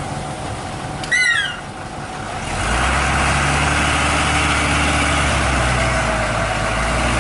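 Truck engine running, getting louder about two and a half seconds in and then holding steady, after a short high squeal about a second in.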